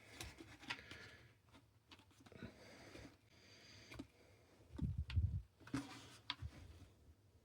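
Hand handling noise inside a plastic animatronic head: scattered small clicks and rubbing as the plastic is pushed and pressed to reshape a dented nose, with a short run of low thuds about five seconds in.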